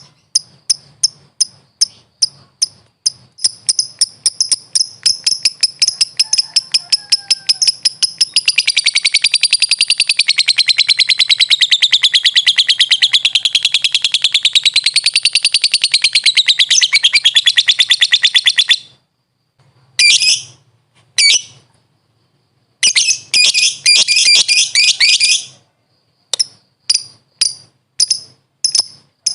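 Lovebird calling. Sharp high chirps repeat faster and faster, then run into a long unbroken rattling chatter (the 'ngekek' trill) of about ten seconds. After a brief pause come a few shorter chattering bursts, and then spaced chirps again near the end.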